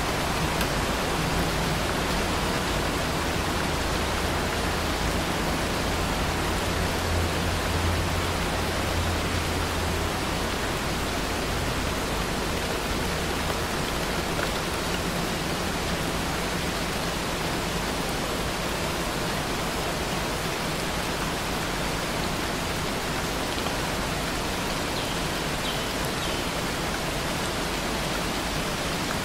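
Steady rain falling, a constant even hiss with no break. A low rumble swells and fades in the first ten seconds or so.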